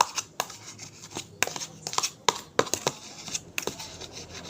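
Clay slime being stirred and worked in a container: irregular sharp clicks and taps over a scraping, rubbing sound.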